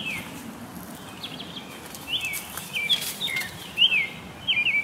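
Small songbirds chirping: a run of short, high chirps, about two a second, most of them dropping quickly in pitch, over a faint background hiss.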